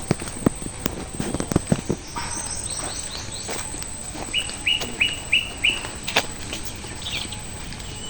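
A small bird calling: a quick falling run of high chirps, then five short sharp notes at about three a second. A few sharp taps sound in the first two seconds.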